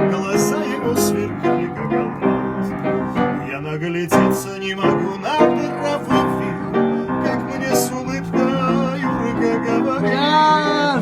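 Instrumental break of a keyboard accompaniment to a Caucasian chanson song, with a steady drum beat under the chords. Near the end a held note with a wavering pitch comes in over it.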